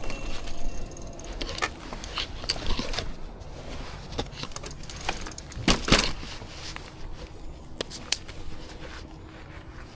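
Bicycle in motion: a steady low rumble of road and wind noise with scattered clicks and rattles, the loudest about six seconds in.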